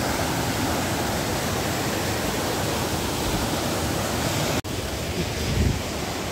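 Steady, dense rush of a waterfall's falling water. The sound cuts out for an instant about two-thirds of the way through, and a short low bump follows a second later.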